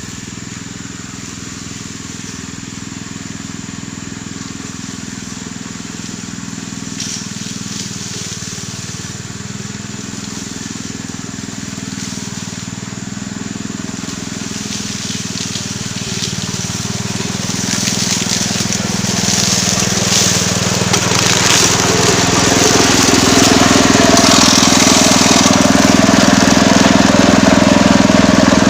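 Small engine of a homemade push grass cutter running steadily while its blade cuts through grass and brush, with crackling from the cut vegetation. It grows louder through the second half as the cutter bites into thicker growth.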